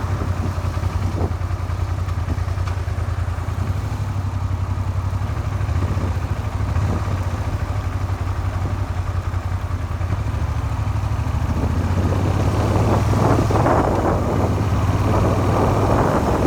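Suzuki SV400 motorcycle engine running while riding, a steady low hum, growing louder with more wind noise in the last few seconds. The engine knocks after a makeshift crankshaft repair.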